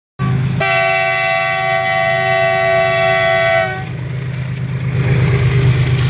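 Train horn sounding one long blast of about three seconds, a chord of several steady tones that drops slightly in pitch as it cuts off, over the steady drone of the locomotive. After the horn the train's running noise grows louder and rougher as it comes on.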